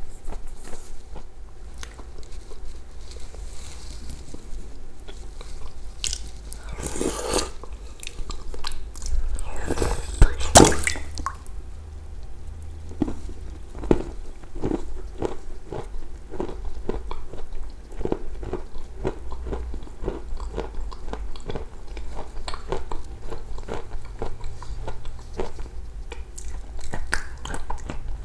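Close-miked wet chewing and mouth sounds of someone eating with a full mouth: a steady run of quick smacking clicks, broken by two louder noisy bursts about seven and ten seconds in.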